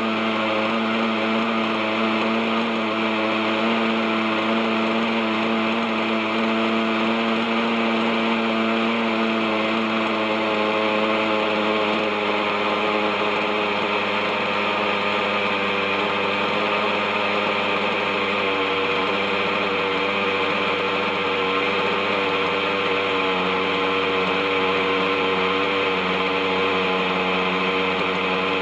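OS 61SF two-stroke glow engine of an RC helicopter running steadily while it hovers. Its note dips slightly a little past halfway.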